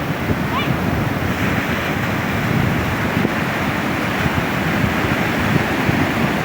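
Sea surf washing onto a beach in a steady rush, with wind buffeting the microphone in low rumbles.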